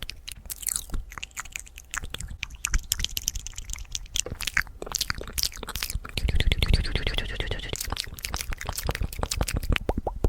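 Fast, close-miked ASMR mouth sounds: rapid wet clicks, smacks and tongue pops in quick succession, with a pitched sound lasting about two seconds partway through.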